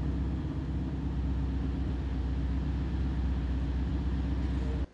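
Zenvo ST1 supercar's V8 engine running steadily at an even pitch, with no revving, then cutting off abruptly near the end.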